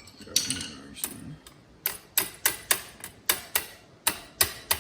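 Quick, even metal clicks, about four a second, starting about two seconds in, from a stuck master link being worked out of a dirt bike's drive chain.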